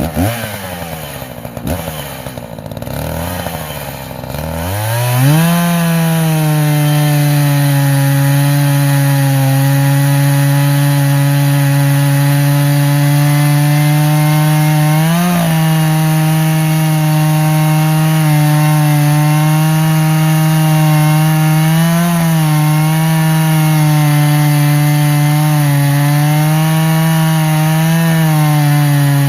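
Echo CS-590 two-stroke chainsaw cutting straight through a log. The engine revs up and down for about five seconds, then holds at steady full throttle under load in the cut, its pitch dipping briefly three times as the chain bites harder.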